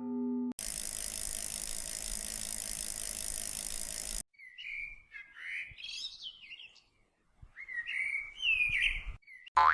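Sound effects in a row: a steady, hissing rush for about three and a half seconds that cuts off abruptly, then birds chirping and tweeting in short, rising and falling calls for about five seconds.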